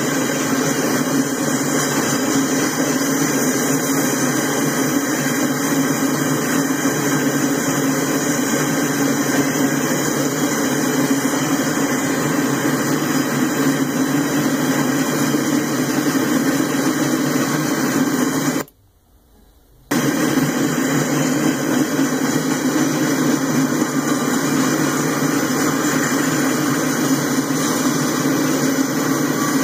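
Freight cars rolling past on the rails, giving a steady rumble of wheels on track. The sound cuts out suddenly for about a second just past the middle, then resumes as before.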